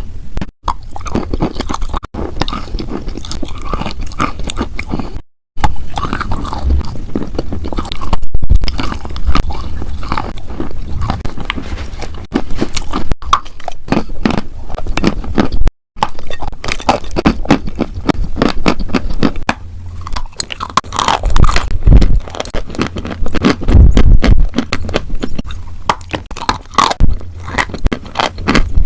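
Close-miked crunching, biting and chewing of something brittle, a dense run of crackly snaps, broken by a few abrupt cuts to silence.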